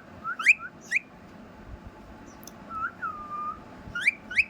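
Clear whistled notes: a cluster of quick upward-sweeping whistles at the start, one longer whistle in the middle that drops and then holds its pitch, and another quick cluster of rising whistles near the end.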